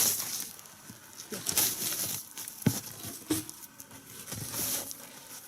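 Snow crunching with a few dull knocks of wood as logs are handled for a log fire.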